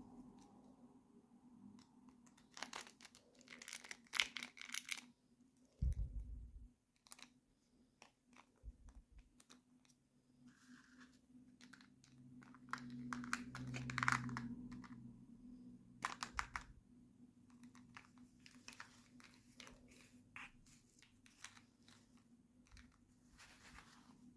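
Toy packaging being handled and opened: plastic and paper crinkling and tearing in scattered bursts, with small clicks.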